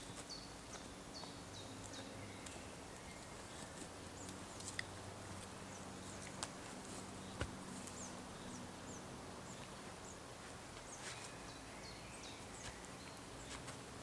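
Quiet woodland ambience with small birds calling in short, high, falling chirps, in runs near the start, around eight seconds in and near the end. Three single sharp clicks fall in the middle, over a faint steady low hum.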